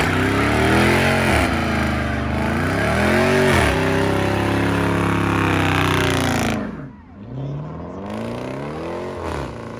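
Car engine revving hard, its pitch rising and falling in several quick sweeps, then held high for a couple of seconds before it is cut off about two-thirds of the way in. It then climbs again in a shorter rev.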